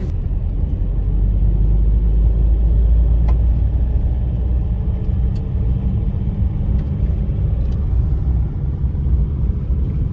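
Steady low rumble of a vehicle in motion, heavy in the bass, with a few faint ticks.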